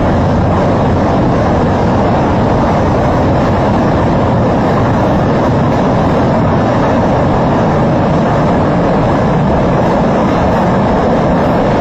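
Muddy waterfall: a steady, loud rush of falling water, even throughout and strongest in the low and middle range.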